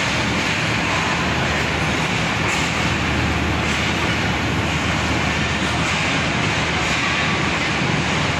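Passenger coaches of a departing express train rolling slowly past the platform: a steady noise of wheels and running gear that does not change.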